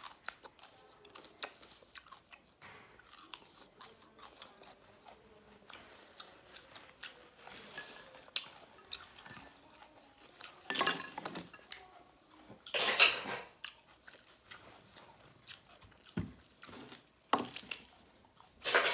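A person eating lobster tail close to the microphone: chewing and biting with many small clicks, and a few louder crunchy bursts about eleven and thirteen seconds in and again near the end.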